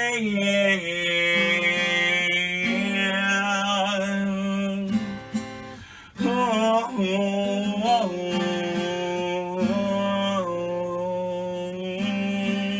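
Acoustic guitar strummed, with a voice singing the closing word of a line about a second in, then the guitar playing on with sustained chords.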